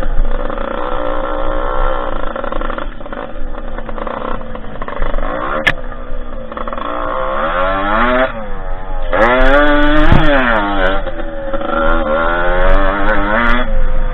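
Derbi 50cc two-stroke dirt-bike engine revving up and down under riding, its pitch rising and falling several times, with a sharp climb and drop about eight to ten seconds in.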